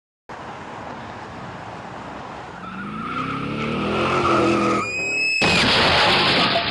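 A car engine revving up, rising in pitch, then a short high tyre squeal and, about five and a half seconds in, a sudden loud crash-like burst of noise that is the loudest part.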